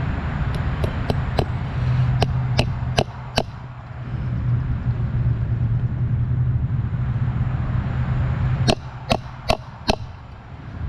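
A hammer striking in quick runs of four, about 0.4 s apart: four light taps, then four harder blows, then four more near the end, as fasteners are driven in at the wire junctions of a kennel fence. A steady low drone runs underneath.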